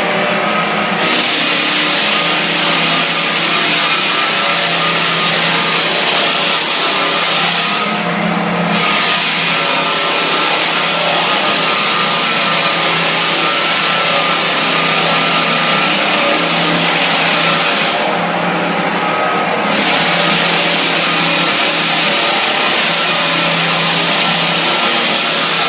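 8-inch Hummel drum sander running with a 50-grit abrasive belt, grinding through wax and old adhesive on a hardwood floor: a steady motor hum under a loud, rough hiss. The hiss drops out twice for a second or two while the motor keeps running.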